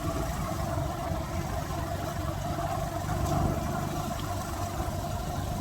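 A steady motor hum that holds an even pitch, swelling slightly a little past the middle.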